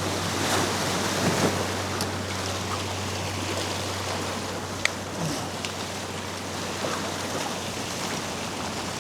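Ocean surf washing, a steady rushing noise, with one sharp click about five seconds in.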